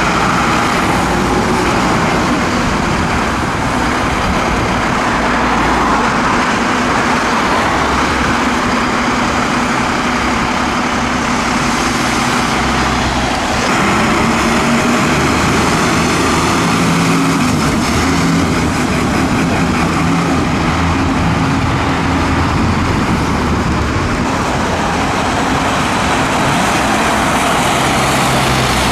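Road traffic: motor vehicle engines running steadily with tyre noise, including heavy vehicles. A deeper engine note shifts in pitch a little over halfway through.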